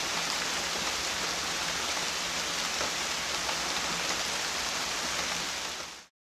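Steady heavy rain falling, a dense even hiss that fades out near the end.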